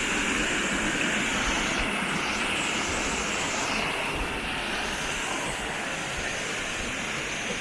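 Steady rush of flowing water: a waterfall or fast stream, an even hiss with no pitch.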